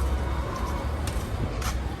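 Low steady rumble of a UD Trucks GH11 diesel engine idling, with a click near the end.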